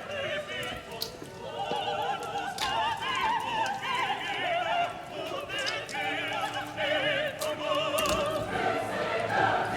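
Operatic music playing, a singer holding long notes with wide vibrato, with a few faint clicks over it.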